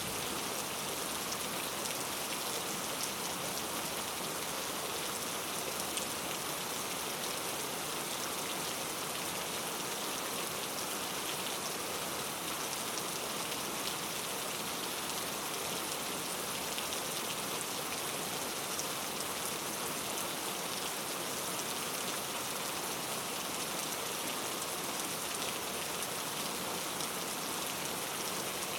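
Steady rain falling in a forest, a dense even hiss of drops on leaves with fine individual drop ticks.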